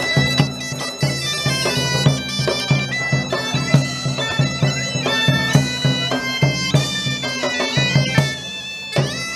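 Bagpipe music: a melody played over a steady drone, with regular drum beats.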